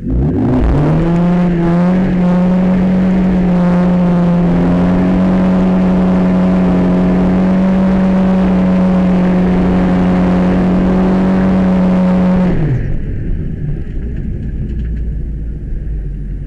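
Isuzu G200W twin-cam four-cylinder engine, with Delco fuel injection, heard from inside the car. It revs up sharply over the first couple of seconds, then holds a steady high pitch for about ten seconds. About twelve and a half seconds in the revs drop off abruptly, leaving a low rumble.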